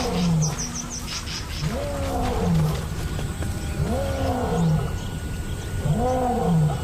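Male lion roaring: a bout of long moaning calls, each rising then falling in pitch, about two seconds apart. It is a resident pride male's territorial roar, a claim of ownership.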